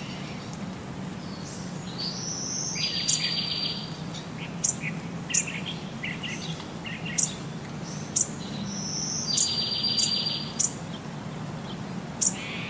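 Bird chirps and calls: short sharp high chirps throughout, and twice a rising whistle running into a buzzy trill, the second time about six seconds after the first and the same as it. A steady low hum lies underneath.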